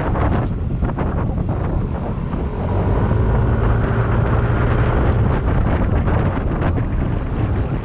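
Yamaha Aerox 155 scooter's single-cylinder engine running while riding, with wind buffeting the microphone. The engine's low hum swells through the middle and then eases.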